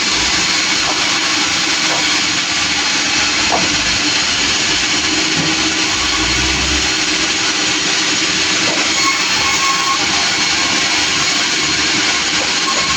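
Sawmill running steadily, a loud, even machine noise from the saw and its engine.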